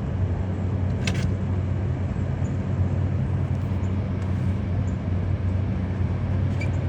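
A motor vehicle's engine running steadily, a low hum, with a brief high click about a second in.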